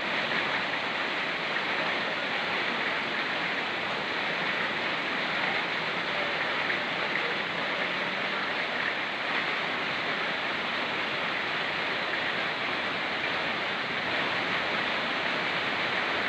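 Rain falling in forest together with a fast-flowing mountain river: a steady, even rush of water.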